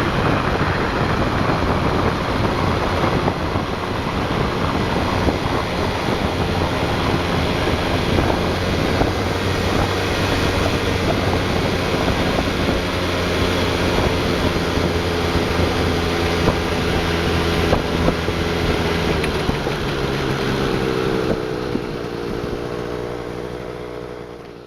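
Yamaha Grand Axis scooter's two-stroke single-cylinder engine running steadily, with a few sharp ticks in the noise. Its tone wavers and the sound eases off over the last few seconds. The owner reports a knocking from around the engine when the throttle is eased to part-open from about 4500 rpm.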